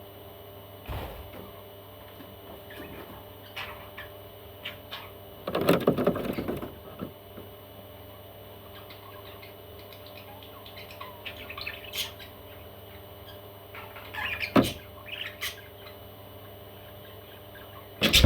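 Baby parrots chirping in short, scattered calls over a steady low hum, with a louder burst of noise about six seconds in and a sharp knock near the end.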